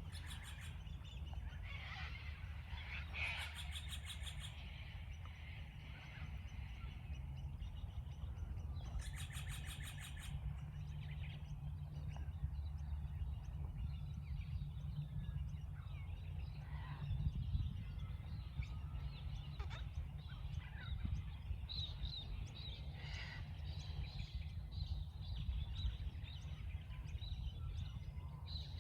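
Various birds chirping and calling, with two short, rapid pulsed calls a few seconds apart, over a steady low background rumble.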